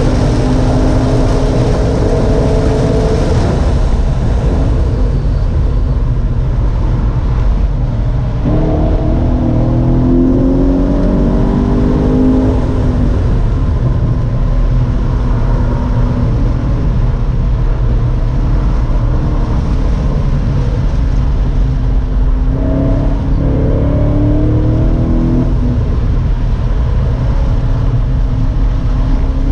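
Car engine under hard acceleration on a time-trial lap. The pitch climbs through the revs several times and drops back in between, over a heavy, steady low rumble.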